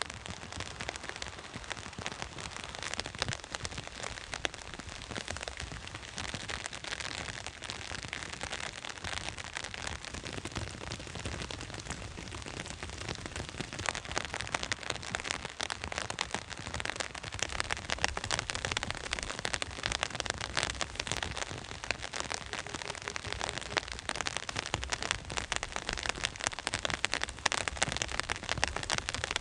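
Rain falling on a surface: a dense patter of drops that grows louder and busier in the second half.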